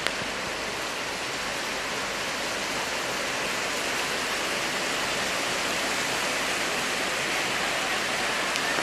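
Torrential rain in a cloudburst, with water pouring down: a steady, dense hiss.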